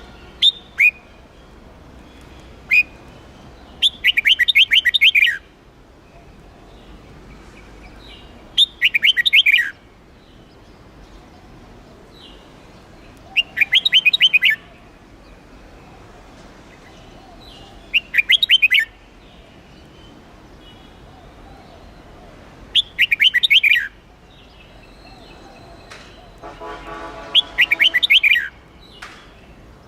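Red-whiskered bulbul singing: short, rapid warbling song phrases repeated about every four to five seconds, with a few single chirps in the first few seconds. A lower, pitched sound overlaps the last phrase.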